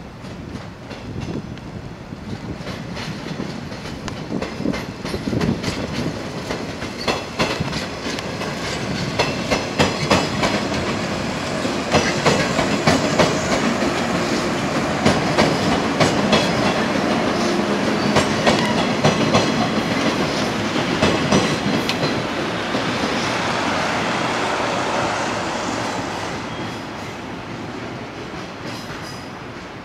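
Yellow 115-series electric train passing close by: wheels clickety-clacking over rail joints under a steady running noise. The sound builds to its loudest around the middle, then fades as the train moves away.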